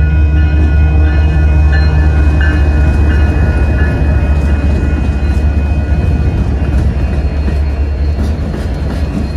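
Diesel-hauled freight train passing close by: a heavy, steady low rumble from the locomotives, with a few sustained ringing tones in the first few seconds that then fade, and faint rail clicks later on.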